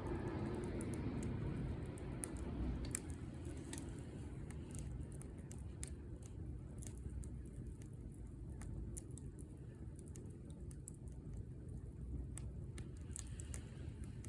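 Wood fire crackling: scattered sharp pops and snaps over a low steady rumble of the flames, a little louder in the first couple of seconds.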